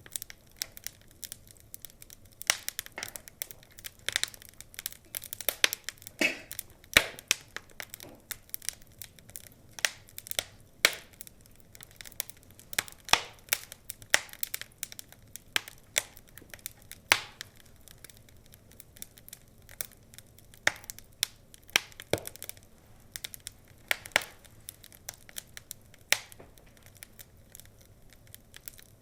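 Wood fire crackling, with irregular sharp pops and snaps, some much louder than others.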